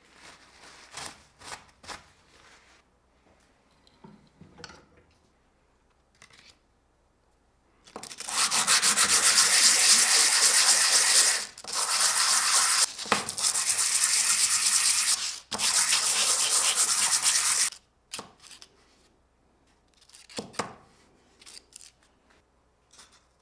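Abrasive rubbing in three long spells of roughly three and a half, four and two seconds, with short breaks between them, and light clicks and handling knocks before and after.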